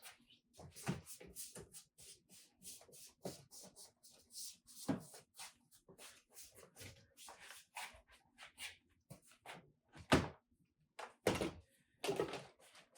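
A string of irregular clicks and knocks, like objects being handled and set down, with a few louder thuds about ten and eleven seconds in.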